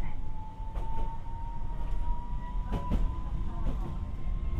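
Tokyu Setagaya Line 300-series train running, heard from inside the car: a low rumble with an electric whine that climbs slowly in pitch as the train picks up speed. Sharp clicks from the wheels on the rail come about once a second or two.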